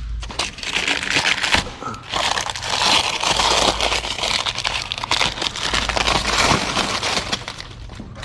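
Masking tape and paper being pulled off and crumpled: a dense crackling rustle with many small snaps, loudest in two stretches about three and six and a half seconds in.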